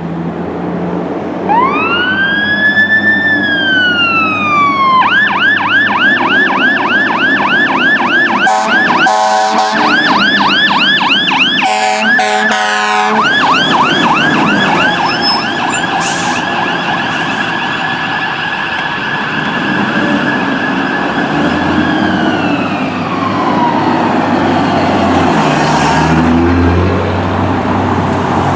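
Fire department apparatus siren running through its modes while responding: a wail that winds up and falls, then a fast yelp from about five seconds in, broken twice by short loud blasts, then a steady high tone that winds down near the end. Engine and road noise run beneath.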